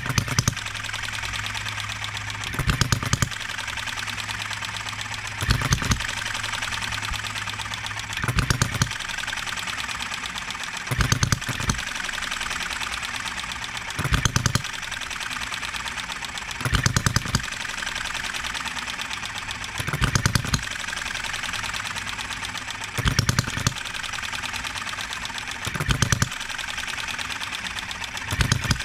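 Enjomor 6cc hit-and-miss model engine running on its governor, its ignition timing set to fire a few degrees before top dead centre. About every three seconds it gives a short burst of several firing strokes, then coasts with a steady mechanical clatter until the next burst.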